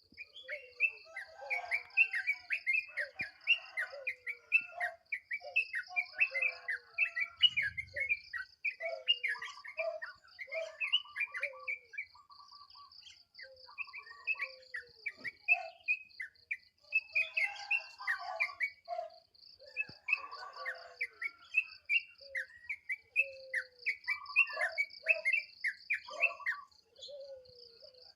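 Yellow-vented bulbul (trucukan) singing in the 'alarm subuh' dawn-song style: quick, bubbly phrases of short whistled notes and slurs, repeated with brief pauses. A steady, rapidly pulsing high insect trill runs behind the song.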